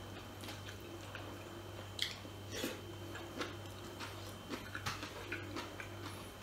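A person eating with bare hands: close-up chewing with short wet clicks and smacks. A steady low hum runs underneath.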